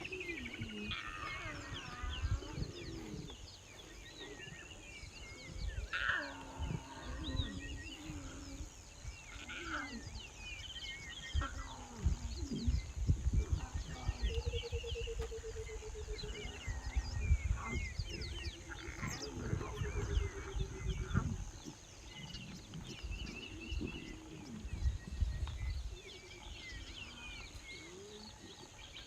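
Young lion cubs calling again and again with short, bending mews and wails, a few of them drawn out and warbling, while hungry at nursing. A steady high insect buzz runs underneath.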